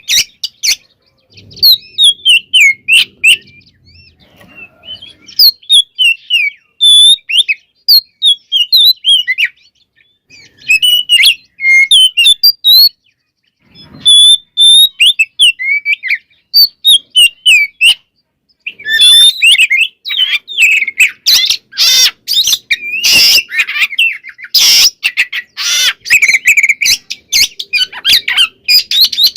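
Oriental magpie-robin (kacer) singing in full voice: quick, varied whistled phrases broken by short pauses. In the last third it turns to louder, harsh rasping calls.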